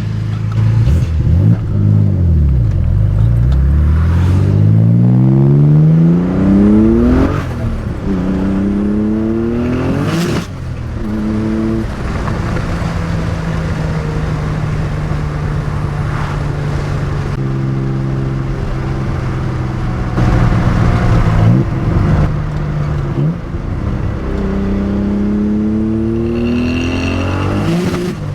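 Nissan 300ZX's twin-turbo V6 accelerating away from a stop: the engine note climbs steadily, drops sharply at gear shifts about seven and ten seconds in, then holds steady while cruising. Near the end it climbs again under another burst of acceleration.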